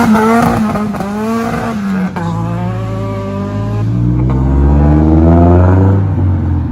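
Car engine accelerating hard. The engine note holds high, drops with an upshift about two seconds in, then climbs steadily again through the next gear, with another shift near the end.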